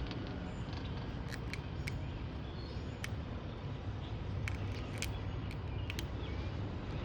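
Squirrel gnawing and cracking an English walnut shell: sharp, irregular clicks and cracks, about a dozen spread over several seconds, over a steady low rumble.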